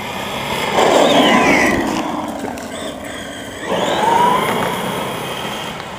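Electric RC monster truck (Redcat Volcano) driving hard past twice: a motor whine that slides down in pitch on the first pass, then rises on the second, over the rush of its tyres on the ground.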